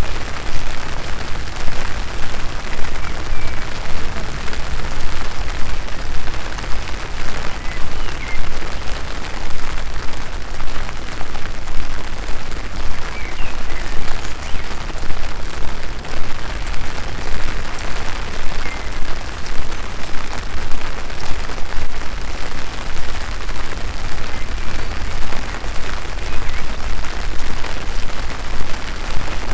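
Steady rain falling close around the microphone, a dense hiss over a strong low rumble that swells and dips unevenly. A few faint short chirps sound now and then.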